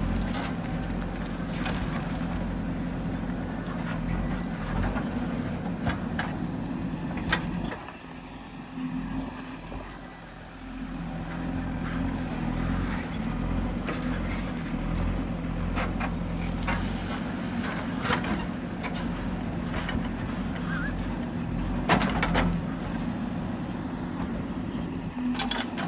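JCB 3DX backhoe loader's diesel engine running steadily as it works, dropping lower for a few seconds about eight seconds in before picking up again. There are several sharp knocks, the loudest about 22 seconds in.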